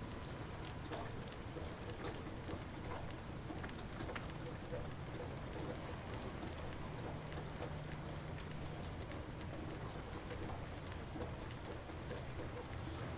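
Light rain falling steadily, with many small drops tapping irregularly, over a low steady rumble.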